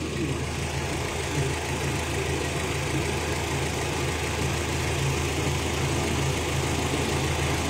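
Car engine idling steadily, with an even low hum.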